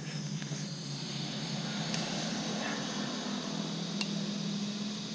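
Compressed air hissing steadily through an air chuck held on the valve stem of a small garden-wagon tire, inflating an old tire, with a steady low hum underneath.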